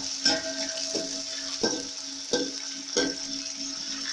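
Diced chicken and garlic frying in oil in a steel pot, with a steady sizzle. A metal spoon stirring it knocks against the pot five times at an even pace, about every two-thirds of a second.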